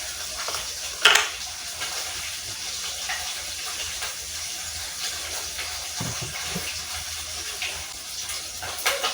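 Steady hissing noise, like running water or steam, with a sharp clink about a second in and another short clatter near the end.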